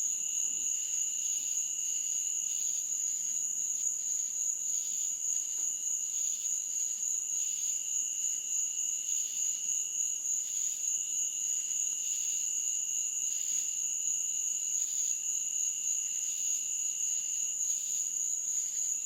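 Chorus of night insects chirping. One steady high-pitched trill runs without a break, and a lower trill sings in stretches of a few seconds with short pauses between them.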